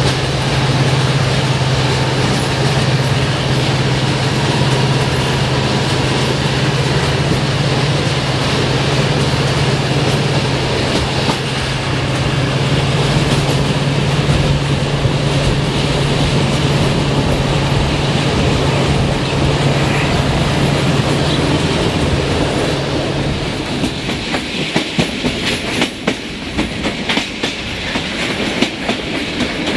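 Passenger train running at speed, heard from an open coach window: a steady rumble and low hum as a freight train of tank wagons passes close alongside on the next track. In the last few seconds the hum drops away and the clickety-clack of the wheels over rail joints and points comes through.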